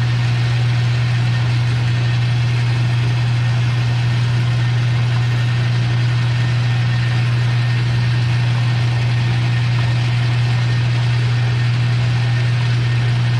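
Metal lathe running with a steady low hum.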